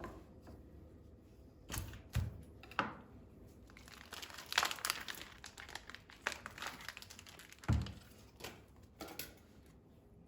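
Crinkling and rustling of packaging being handled by hand, in irregular bursts, with a few soft thumps.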